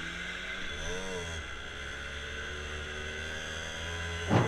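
Faint steady vehicle engine hum, with a brief rising-and-falling tone about a second in.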